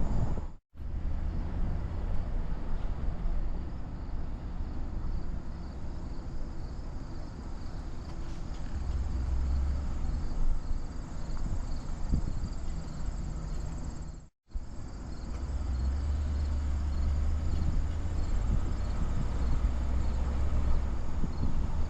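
Low rumble of engine and road noise from a car being driven, with faint, evenly repeating high chirps of insects. The sound cuts out to silence twice, about half a second in and again about two-thirds of the way through.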